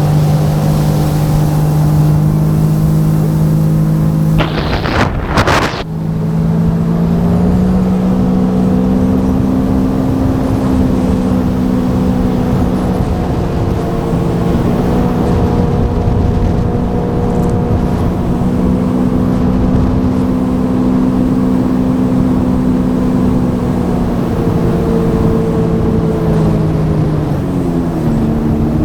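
Sea-Doo Fish Pro jet ski's three-cylinder engine running steadily at cruising speed, over a rush of wind and water. About five seconds in there is a brief burst of noise as the engine note breaks off, then it picks back up a little higher. Near the end the pitch falls as the throttle eases off.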